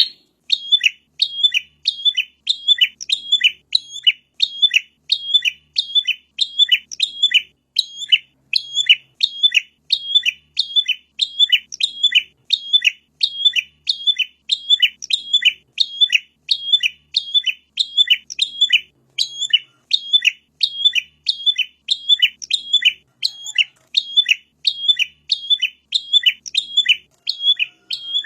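A prinia (prenjak) calling over and over in a steady series of short, sharp chirps, about two to three a second, each dropping quickly in pitch.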